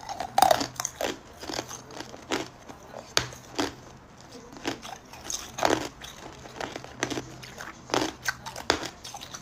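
Hard ice cubes being bitten and crunched between the teeth, close to the microphone: a run of sharp, irregular cracks and crunches.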